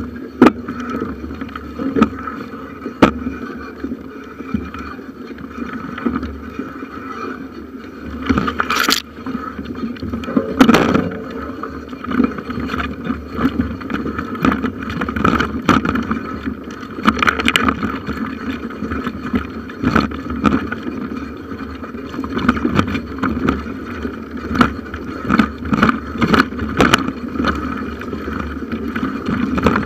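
Bicycle ridden along a forest trail, picked up by a camera mounted on the handlebar: a steady rolling rumble and rattle with frequent irregular knocks from bumps in the track.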